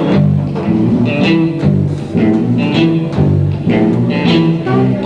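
Blues band playing live without vocals: guitar and bass lines over a steady, even beat.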